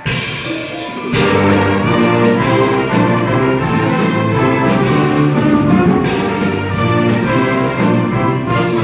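High school wind band playing, with brass to the fore. Softer playing gives way to a loud entry of the full band about a second in, which then carries on in sustained chords.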